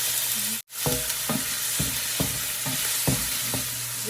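Food sizzling in hot oil in a ceramic-coated wok as it is stir-fried, with a spatula striking the pan about twice a second. The sound breaks off for an instant about half a second in.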